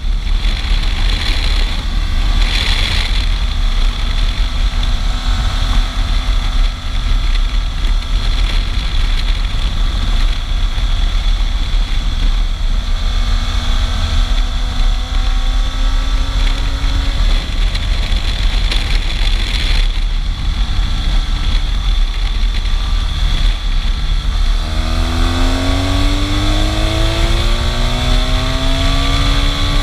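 Motorcycle riding at speed: engine running under heavy wind rumble on the microphone. From about 25 seconds in, the engine note climbs steadily as the bike accelerates.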